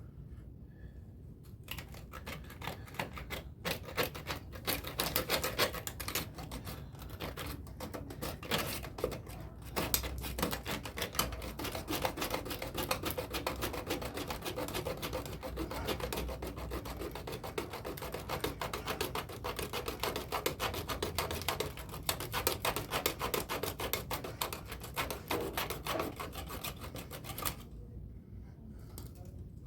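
Hand tool scraping or rasping on plastic pipe, a fast continuous run of strokes that starts about two seconds in and stops suddenly near the end.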